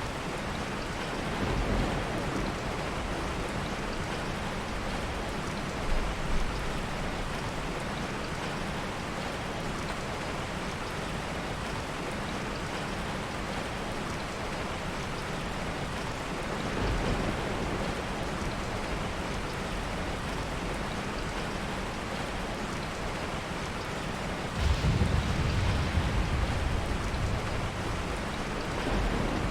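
Steady heavy rain, with low rolls of soft thunder swelling a few times, the loudest beginning near the end. Two brief sharp pops come about six seconds in.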